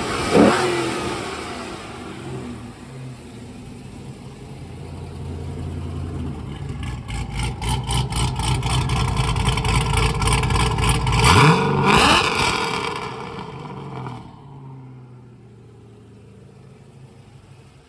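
2003 Corvette Z06 LS6 5.7-litre V8 being revved with the throttle blipped: a quick rev at the start, then a steadier run, then revs climbing to a sharp high rev about twelve seconds in before falling back. The sound drops away sharply about fourteen seconds in. The seller calls the engine in top shape, with no knocks or ticks.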